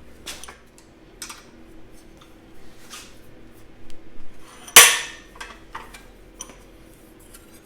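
Light metallic clinks and clanks as 18-gauge sheet steel is worked and creased in a small vise, with one loud sharp metal bang a little under five seconds in that rings briefly.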